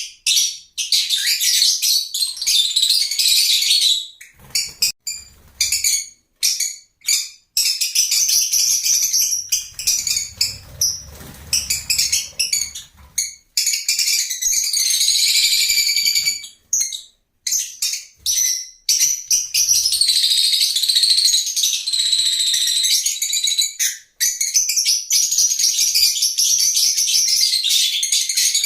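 Lovebirds chattering: dense, shrill, high-pitched chirps and squeaks, broken by frequent brief sudden gaps.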